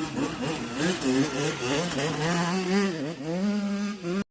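Dirt bike engines revving, the pitch rising and dropping over and over as the throttle is worked, with more than one engine heard at once.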